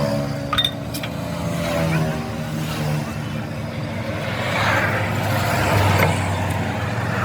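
A motor vehicle's engine running steadily, with a swell of road noise about four to six seconds in.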